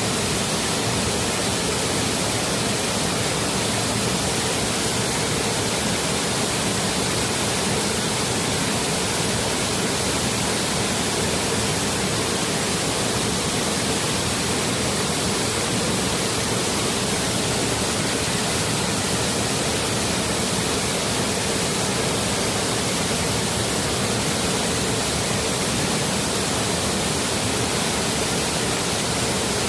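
Steady rush of a small waterfall on a forest stream, an even, unchanging water noise.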